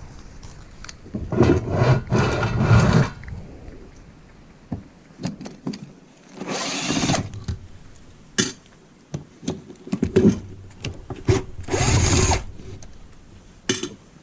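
Handheld power drill run in three short bursts, with sharp clicks and knocks of parts and tools between them.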